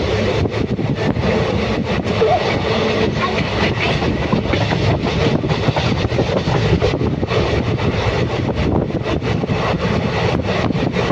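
Passenger train running along the track, heard from on board: a steady loud rumble with irregular clattering and buffeting.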